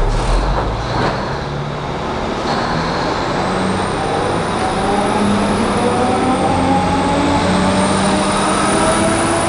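Diesel subway work train pulling out and rolling past, a couple of clanks near the start, then wheels on rails and a running diesel engine with a whine that rises slowly as the train gathers speed.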